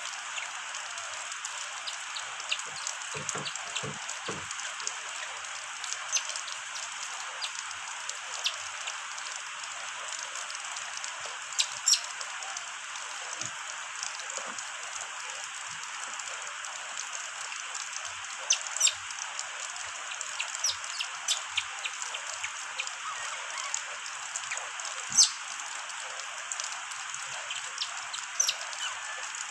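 Steady rain hissing, with scattered sharp drops tapping irregularly on a nearby surface.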